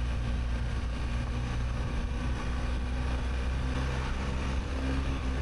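BMW R1250GS Adventure's boxer-twin engine running at low, steady revs under a steady rush of noise.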